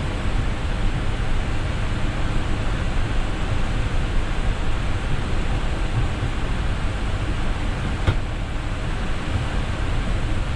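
Steady rush of flight-deck noise in an Airbus A320neo in flight: airflow and ventilation, heaviest in the low end. One faint click about eight seconds in.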